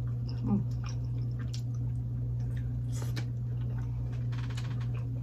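Close-miked chewing and lip-smacking on oxtail meat: scattered wet clicks and squishes, busier about four and a half seconds in, over a steady low hum.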